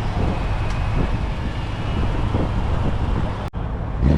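Steady low rumble of car engines running at a car meet, with a brief cut-out about three and a half seconds in.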